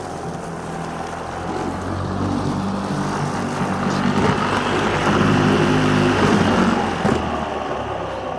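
Neuton EM 5.1 24-volt electric mower's motor and blade running with a steady whine, growing louder and rougher through the middle and easing off near the end. The motor is wired straight to the battery and, to the owner, still runs weak.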